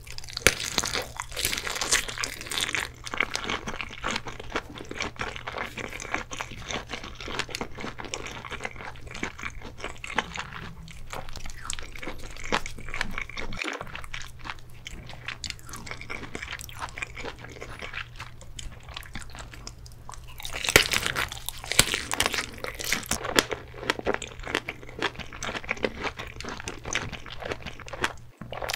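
Close-miked chewing and biting of a fried sausage dipped in cheese sauce: dense crackles and clicks of the casing and mouth, with a louder burst of biting and chewing about two-thirds of the way through.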